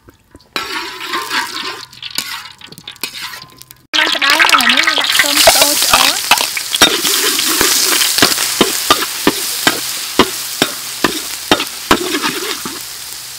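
Minced garlic hitting hot oil in a wok sizzles loudly, starting suddenly about four seconds in after a few quieter seconds. A metal spatula scrapes and taps against the wok several times a second as it is stirred, and the sizzle eases off toward the end.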